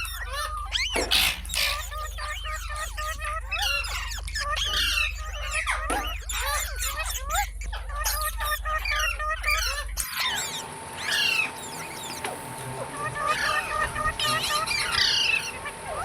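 Parrots chattering and squawking: a rapid run of short, sliding chirps and squawks. About ten seconds in, a low background hum stops and a faint steady tone takes its place.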